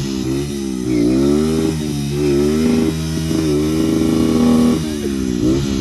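Motorcycle engine revving up and down over and over, its pitch dipping and climbing about once a second, then holding a steadier high rev for about a second before dropping again near the end.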